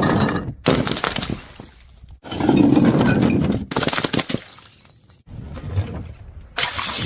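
Glass bottles shattering, one after another, with a fresh crash about every second and a half, each followed by tinkling shards.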